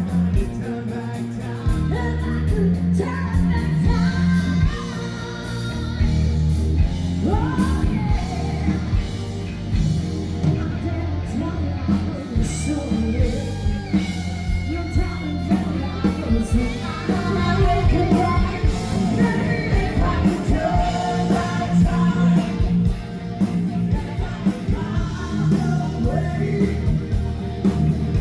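Loud rock music with a singer and electric guitar, played live by a band.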